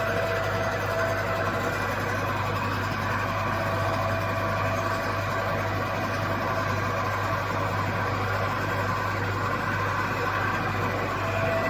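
Compact steel-structure end-face milling machine running steadily: a constant motor hum with several steady high tones over it, no change in pitch or level.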